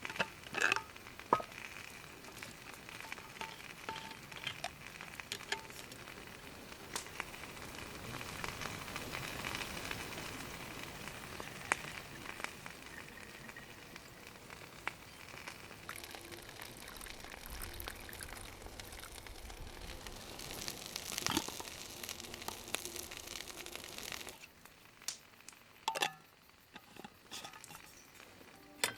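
Water heating for tea over a campfire: a steady sizzling hiss with scattered sharp crackles and clicks from the fire. Near the end the hiss cuts off suddenly, leaving only a few clicks.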